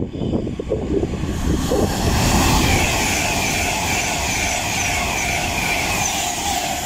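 Avanti West Coast Class 390 Pendolino electric train passing through at speed: a rush of wheels on rail and air that builds over the first two seconds, then holds steady, with a faint high whine over it.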